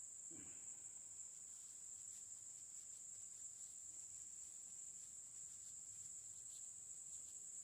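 Insects calling steadily in a high, continuous band, a faint background chorus.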